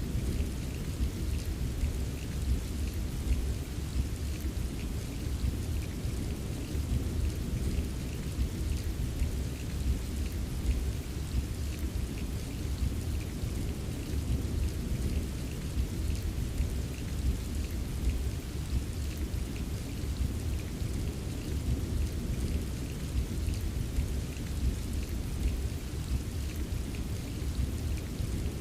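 Steady rain with a continuous deep, low rumble underneath and light drops tapping, unchanging throughout with no distinct thunderclap.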